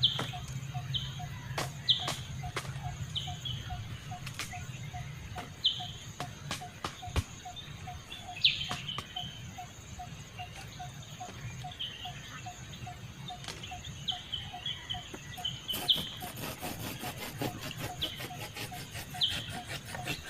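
Forest birds calling in short, falling chirps over a steady run of evenly repeated lower notes, about two or three a second, with scattered sharp clicks and knocks. Near the end a fast rasping ticking joins in.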